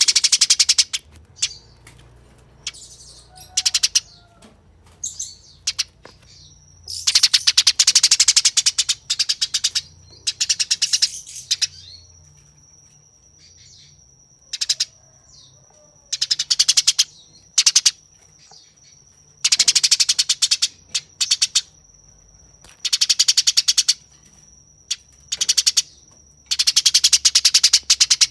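Eurasian tree sparrows giving harsh, rapid fighting chatter in repeated bursts of about one to two seconds, with short gaps between them. A faint steady high tone runs underneath.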